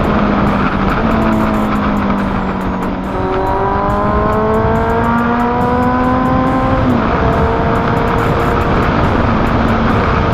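Motorcycle with an SC Project aftermarket exhaust riding at road speed under heavy wind noise. About three seconds in the engine note drops with a gear change, climbs steadily as it accelerates, then falls sharply at about seven seconds with the next shift.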